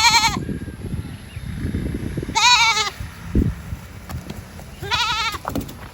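A goat or sheep-like animal bleating three times, each a loud quavering call about half a second long, roughly two and a half seconds apart; the first is already ending at the start. Low noise and a short thump fill the gaps between the calls.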